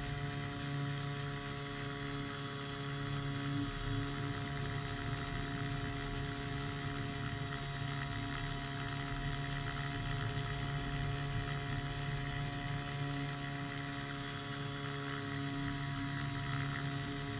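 Engine of a powered hang glider running steadily in flight, a constant drone that holds one pitch throughout.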